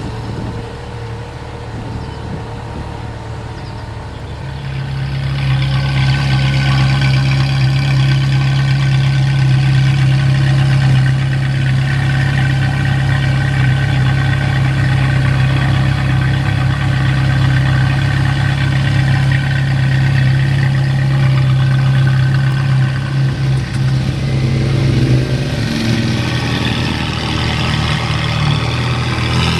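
A car engine idling steadily and loudly; it grows louder about five seconds in. Near the end its note wavers and then rises as it is revved.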